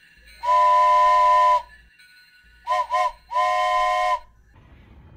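Steam locomotive whistle blowing a chord over a hiss: one long blast, then two quick short toots, then another long blast.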